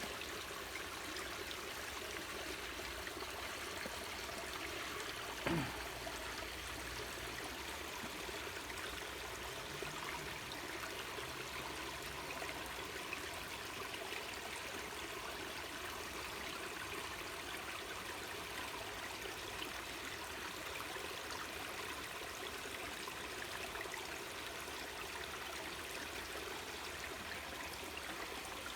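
Waterfall running with a steady, even rush of water. A brief thump about five and a half seconds in.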